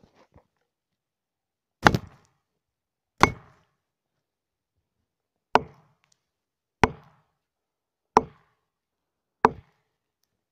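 Axe chopping wood: six sharp strikes, mostly about a second and a quarter apart, with a longer pause after the second.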